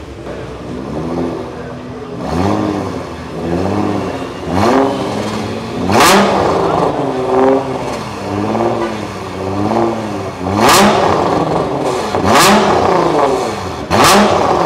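Tuned Nissan GT-R R35's twin-turbo V6 revved hard while standing still: repeated quick blips of the throttle, the engine note rising and falling, with a sharp crack at about four of the blips.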